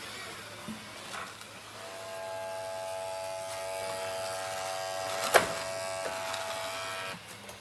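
Small electric motor of the Dreame D20 Pro Plus robot vacuum running with a steady buzzing whine that cuts off near the end. There is a sharp knock about five seconds in.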